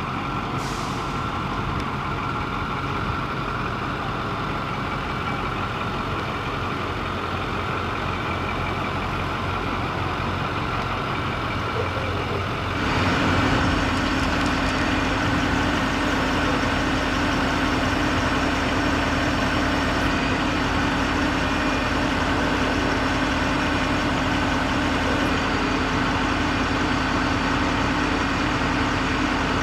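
A 2010 Ford F550's 6.4 L diesel engine idling steadily. A little before halfway through, the sound steps up slightly louder and a steady low hum joins in and holds.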